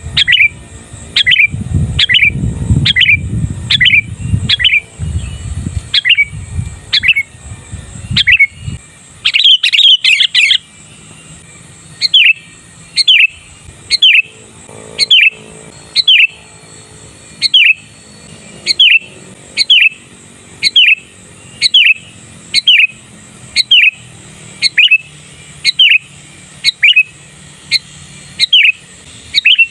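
Sooty-headed bulbul giving a short sharp call over and over, about once a second, with a quick flurry of notes around ten seconds in. A low rumble sits under the first nine seconds.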